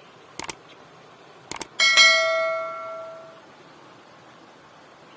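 A few short clicks, then a single bell-like metallic ring with several overtones that dies away over about a second and a half.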